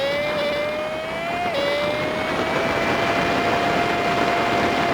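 Honda Super Cub 50's single-cylinder engine running under way, heard through a sped-up dashcam recording, so its note is raised to a high, even whine over wind and road noise. The pitch drops suddenly about a second and a half in, as on a gear change, then climbs and holds steady.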